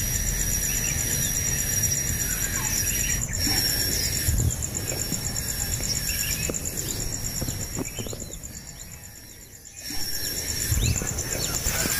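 Outdoor ambience: a steady, high-pitched, fast-pulsing insect drone, with scattered short bird chirps and a low rumble underneath. The sound drops away briefly near the end, then returns.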